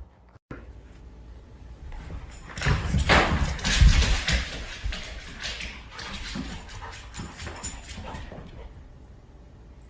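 Dog noises mixed with scuffling and dull thumps, loudest about three to four seconds in, then fading.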